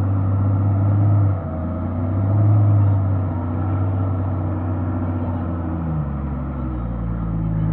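Four-wheel-drive vehicle's engine running with a steady low drone that swells a little and shifts in pitch about six seconds in.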